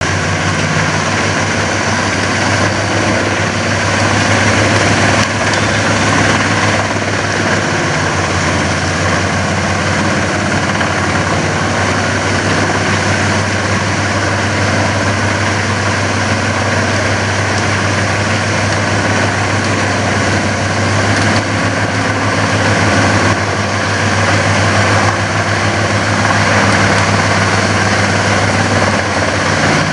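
Dutch Dragon EC10075 container woodchipper running: a steady engine drone under dense machine noise, swelling slightly a couple of times.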